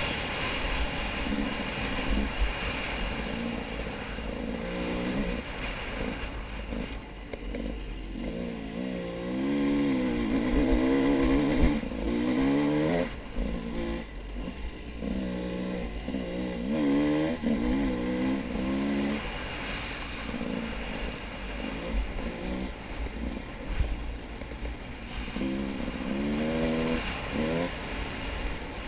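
A motor vehicle engine running with its pitch repeatedly rising and falling, as if revving over uneven ground, over a steady low rumble.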